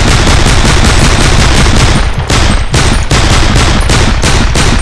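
Loud, rapid automatic gunfire in one long continuous burst, briefly faltering twice midway.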